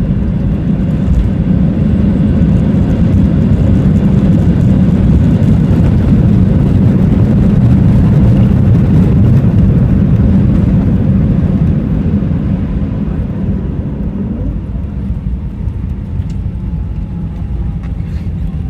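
Airbus A320 cabin noise during landing: a loud, low rumble of engines and airframe that swells, then eases off from about twelve seconds in, with a faint whine falling slowly in pitch near the end.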